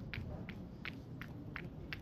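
Running footsteps, about three strides a second, each a short sharp tick, over a low steady rumble.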